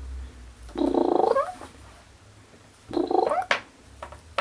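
Young kitten purring, rising into two loud pulsing surges about two seconds apart with each breath. A couple of sharp clicks come near the end.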